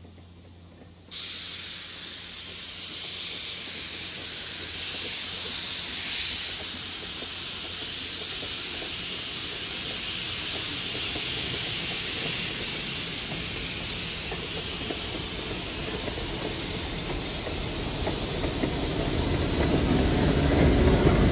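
Train of passenger cars rolling past, with a steady hiss that starts abruptly about a second in. Near the end a low rumble builds as the trailing diesel locomotive comes by.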